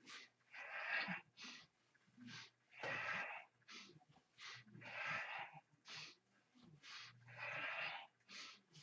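A person breathing hard and rhythmically under exertion: a long, forceful breath about every two seconds, with short quick breaths in between.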